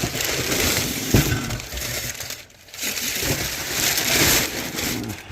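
Packing paper crinkling and crumpling as it is handled and pulled out of a shipping box, in two long stretches with a short lull about two and a half seconds in, and a single knock about a second in.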